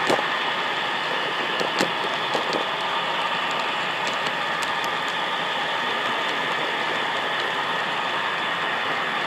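Model train running on the layout track: a steady whir from the motor and wheels, with a few light clicks in the first three seconds.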